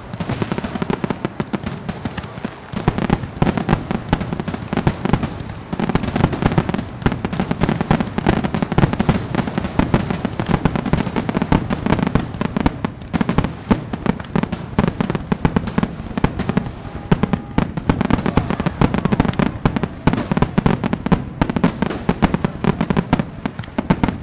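Fireworks going off in a dense, continuous run of bangs and crackles with no gaps.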